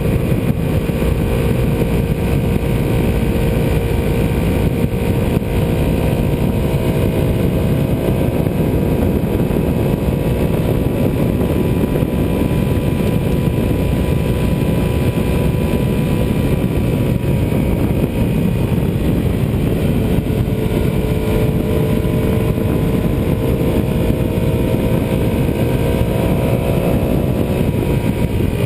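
Ducati 748R's 90-degree V-twin engine running under way at a steady cruise, over a heavy rushing noise. Its pitch dips a little about two-thirds through, climbs gradually, then falls near the end.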